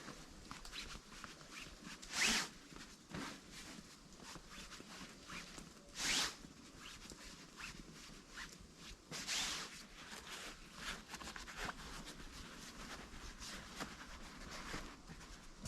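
Rustling handling noises with small clicks, broken by three brief, louder swishes a few seconds apart.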